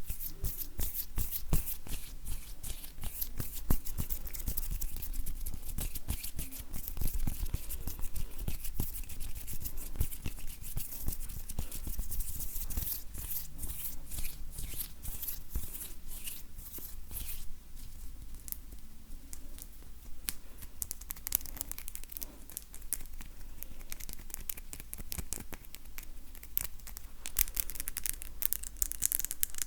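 Dry bare hands rubbing and brushing together close to the microphone, making a continuous run of fine, crisp crackles and scratchy rustling of skin.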